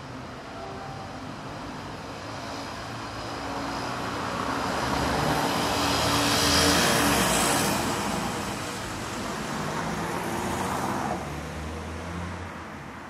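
City street traffic: a vehicle passes close by, its engine and tyre noise swelling to a peak about halfway through and then fading. A second, smaller pass-by follows near the end, over a steady hum of traffic.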